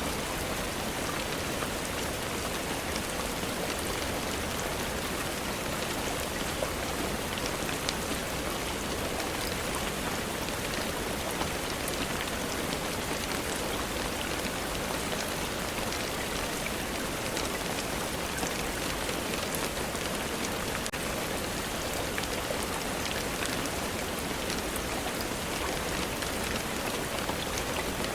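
Steady rainfall, an even hiss with scattered small drip ticks.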